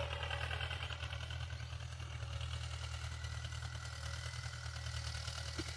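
Diesel tractor engine running steadily, a continuous low rumble with a fine, even pulsing beat.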